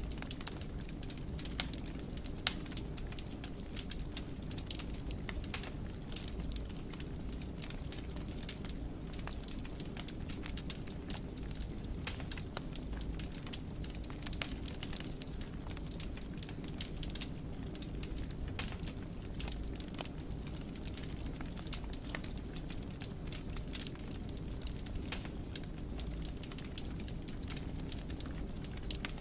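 Wood fire in a fireplace crackling: many small sharp pops and snaps over a steady low rumble of the burning.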